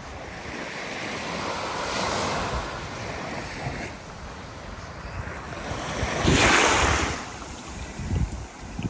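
Surf washing onto a beach, with one wave breaking louder about six seconds in, and wind buffeting the microphone.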